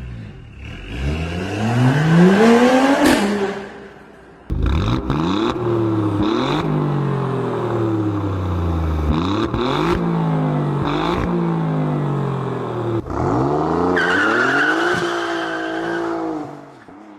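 V6 car engine revving up, then, after a cut, accelerating hard through several gear changes, its pitch climbing and dropping back at each shift. A high steady whine joins near the end.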